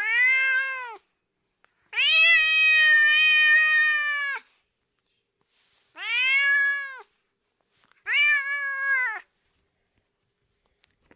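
Domestic cat meowing four times, with pauses between calls. The second meow is long and drawn out, about two and a half seconds; the others are about a second each, each rising then falling in pitch.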